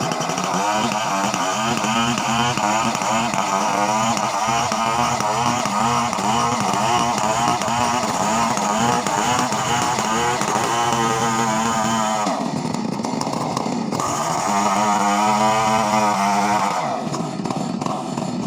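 Chainsaw engine running at high revs, its pitch wavering up and down, easing off briefly twice in the last third.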